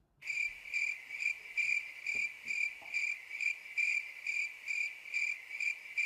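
Cricket chirping: a high, even chirp repeated about twice a second.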